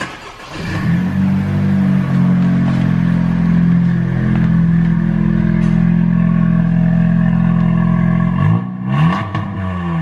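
2019 Honda Civic Si's turbocharged 1.5-litre four-cylinder starting up and settling into a steady idle through its catless front pipe and downpipe, then revved in short blips near the end.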